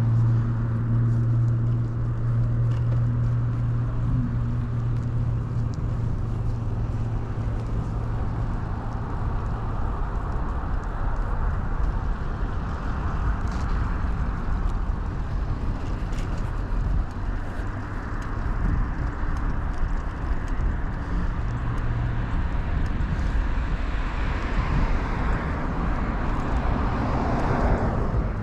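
Rolling bicycle ride heard from a chest-mounted camera: steady wind rush and tyre rumble, with traffic noise. A low engine hum fades away over the first ten seconds, and the rushing noise swells near the end as a vehicle passes.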